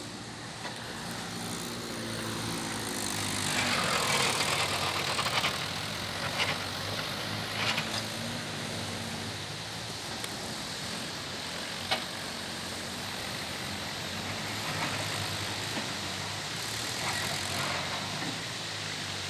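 Tractor's diesel engine running steadily at idle while it is loaded, with a louder rush of noise about four to five seconds in and a few sharp knocks, the loudest about twelve seconds in.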